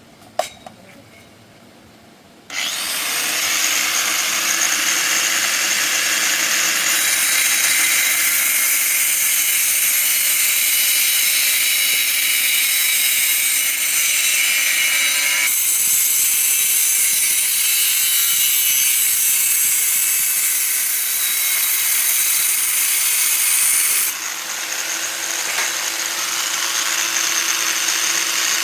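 A power tool starts about two and a half seconds in and runs continuously with a loud, hissing, high-pitched noise. Its sound shifts about halfway through and drops in level near the end.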